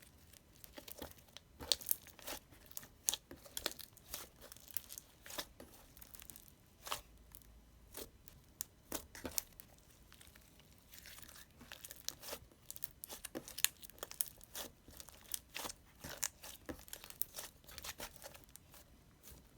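Irregular crinkling and tearing of handled wrapping material, with sharp crackles coming several times a second.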